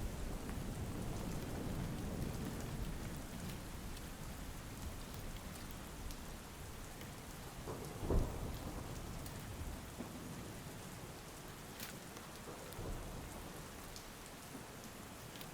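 Steady rain with a low thunder rumble that fades over the first few seconds. There is a short thump about halfway through, and scattered drips tick throughout.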